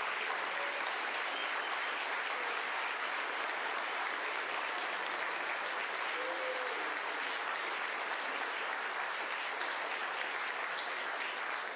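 A crowd applauding steadily, thinning to a few last claps and fading out near the end.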